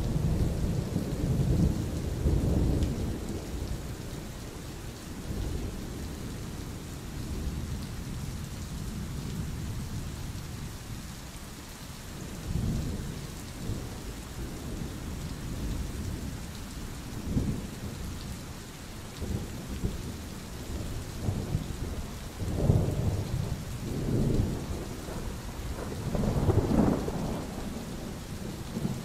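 Steady rain with rolls of thunder rumbling again and again. One low rumble swells at the start, and several more come through the second half, the strongest near the end.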